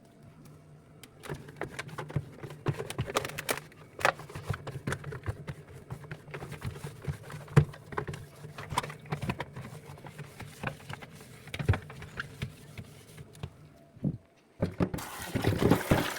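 Household items knocking and clicking as they are handled during fridge cleaning, over a steady low hum. A tap starts running near the end.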